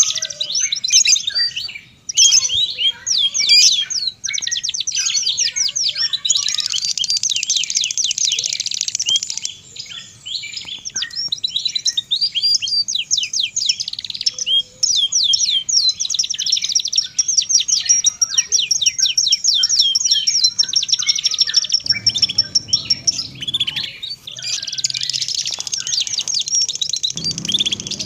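Small songbirds chirping and trilling continuously in dense, overlapping bursts of fast, high notes, with a long run of rapid repeated notes about two-thirds of the way through.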